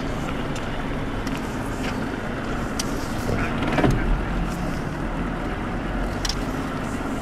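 Motor launch engine running steadily at low speed, a continuous low hum, with a brief louder swell a little past halfway.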